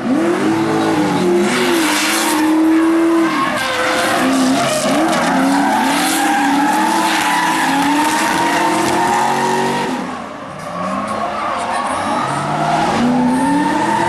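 Drift cars at full throttle, engine pitch climbing and falling with gear changes and throttle blips, over the hiss and screech of sliding tyres. The sound dips briefly about ten seconds in, then builds again.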